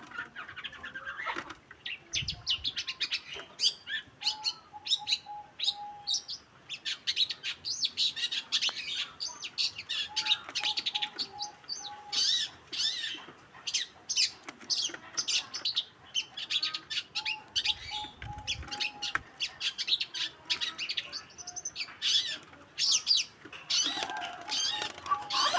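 Long-tailed shrike (cendet) singing a rapid, varied stream of high chirps and whistles. A short stuttering run of lower notes recurs about every six or seven seconds.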